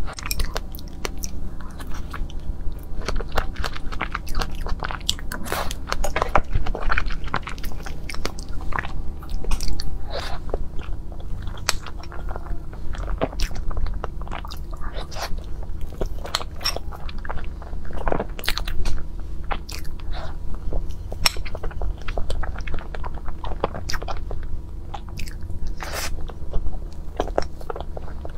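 Close-miked chewing and wet mouth sounds of a person eating soft strawberry crepe cake with whipped cream, full of quick smacks and clicks, over a steady low hum.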